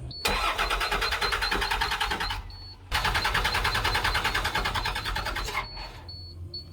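International DT466 diesel engine being cranked by its starter in two bursts of about two to three seconds each, with a rapid, even chug of compression strokes; it stops each time without firing, as the engine is not getting fuel.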